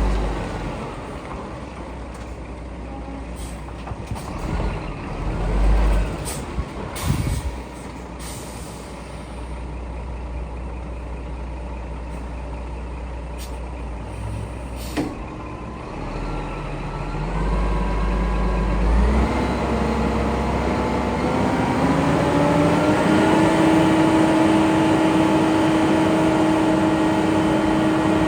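Scania R480 dump truck running, with several short sharp hisses of air from its air-brake system early on. About twenty seconds in, the engine note rises and then holds steady at a higher pitch.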